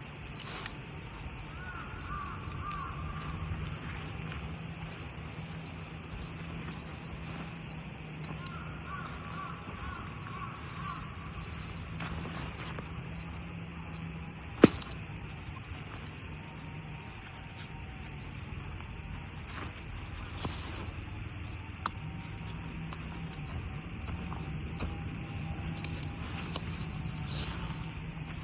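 Autumn insects such as crickets chirping in a steady high-pitched trill, with two short trilled calls early on and a single sharp click about halfway through.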